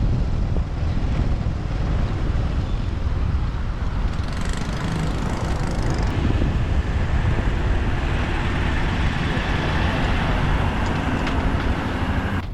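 Wind rushing over the microphone and road and traffic noise from riding a motorbike through city streets, a steady low rumble with a hiss over it.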